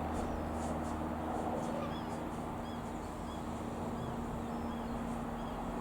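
Piper PA-28-181 Cherokee Archer's single piston engine and propeller droning steadily as the light aircraft passes. A small bird chirps repeatedly in short notes, about one every second from a couple of seconds in.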